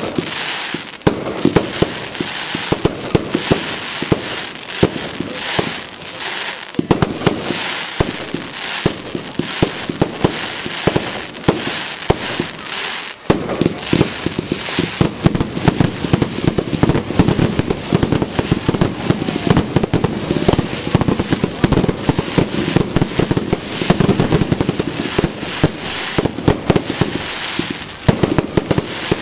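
Fireworks display: a dense, continuous barrage of bangs and crackling, with a brief lull about halfway through.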